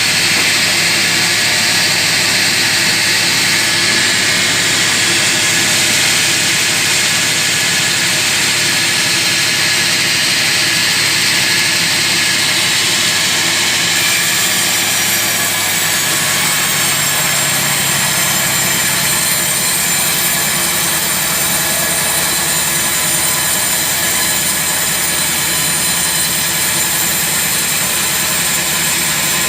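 Sawmill saw running through a large teak log: a loud, even rushing noise over the low hum of its motor. The hum changes pitch about halfway through.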